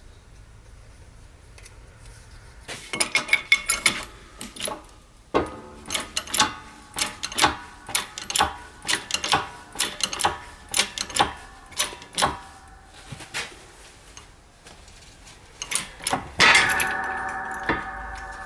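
Metal parts clinking and knocking as they are handled and set down, in irregular taps. Near the end one louder clang rings on and fades.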